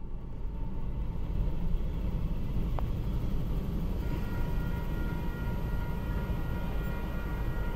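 Low, steady rumble of a freight train at a grade crossing, with faint, steady high tones joining about four seconds in.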